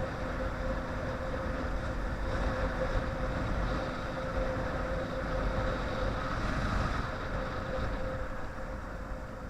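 Motorcycle engine running steadily while riding, with a steady hum and wind noise on the microphone.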